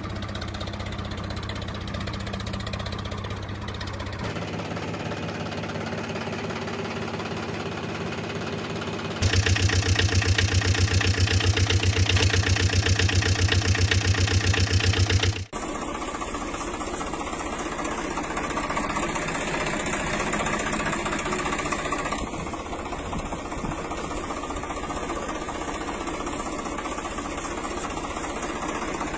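Tractor engine sound effects running with a steady chugging pulse, in several sections that change abruptly. The loudest, most strongly pulsing section runs from about nine to fifteen seconds in.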